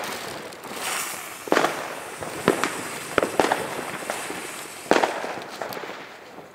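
Fireworks and firecrackers going off: about half a dozen sharp bangs spread over a few seconds, each trailing an echo.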